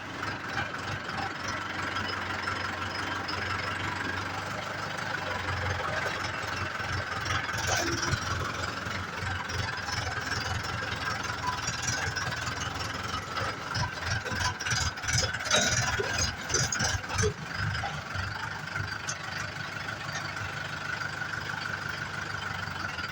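Mahindra 475 DI tractor's diesel engine running steadily, with some louder irregular knocks and spikes about two-thirds of the way through.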